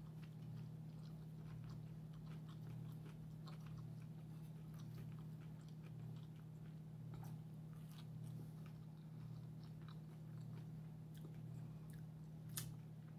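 Close-up eating sounds: a person chewing and biting into fried green tomatoes, with many small wet clicks, over a steady low hum. A sharper smack comes near the end as fingers are licked.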